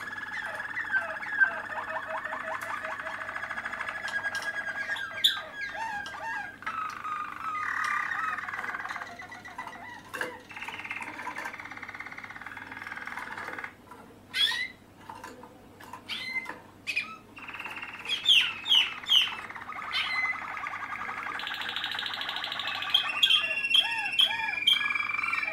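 Young Malinois (Waterslager) canaries singing: long rolling trills and warbles, broken by sharp chirps and higher notes.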